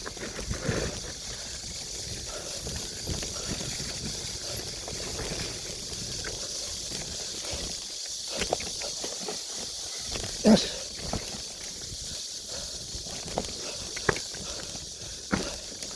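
Bike rolling over a rough forest trail: a steady rumble and rattle from the ground, with scattered sharp knocks and a louder jolt about ten and a half seconds in. A steady high hiss runs underneath.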